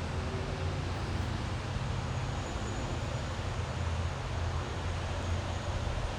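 Waterfall: a steady rush of falling water with a low rumble beneath it.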